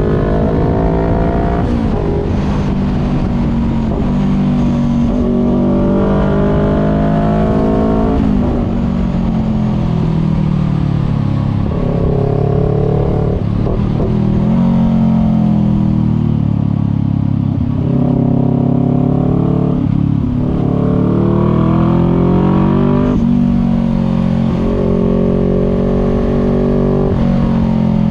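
Voge 500R's parallel-twin engine through a full aftermarket exhaust with the dB killer removed, under way and repeatedly accelerating. Its pitch climbs through the revs and drops sharply at each of several gear changes.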